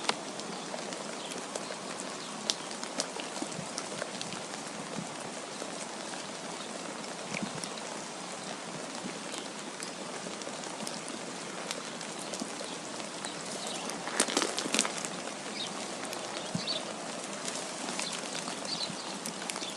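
Steady hiss of wind and falling precipitation with scattered light ticks, and a denser run of louder ticks about fourteen seconds in.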